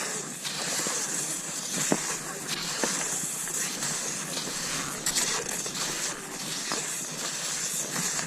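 Cross-country skis swishing over snow in a steady stride, a hiss that swells and fades every second or two, with a few sharp clicks now and then.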